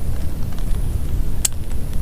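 Heavy rain drumming on a camping tarp, heard as a deep steady rumble, with one sharp tick about one and a half seconds in.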